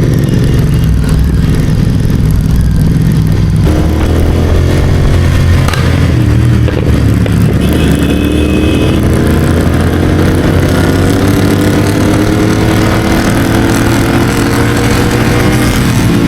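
Royal Enfield Continental GT650 parallel-twin running through a Red Rooster exhaust on a Code6 tune while the bike is ridden. The engine note changes suddenly about four seconds in, then climbs slowly as the bike accelerates.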